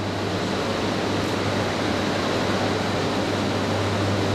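E3-series Genbi Shinkansen train pulling slowly out past the platform: a steady rushing noise over a constant low hum.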